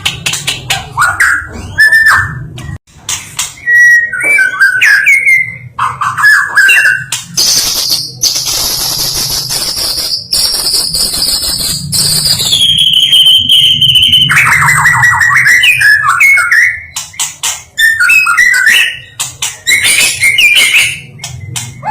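White-rumped shama singing: quick, varied whistled phrases mixed with sharp clicks, and in the middle a long high note held for several seconds that steps down in pitch before breaking into lower warbling trills.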